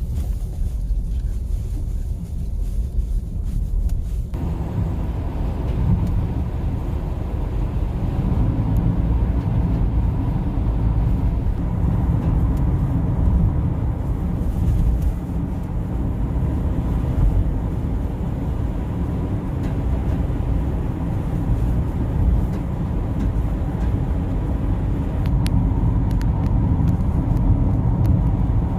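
Car driving along a road: a steady low rumble of engine and tyre noise. About four seconds in, the sound grows fuller as more mid-range road noise joins.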